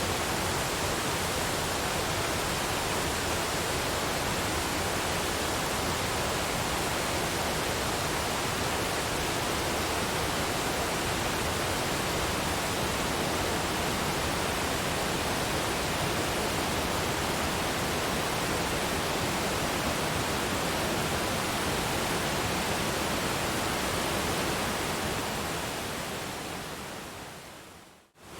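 Waterfall: a steady rush of falling water. Near the end it fades down to almost nothing and then quickly swells back.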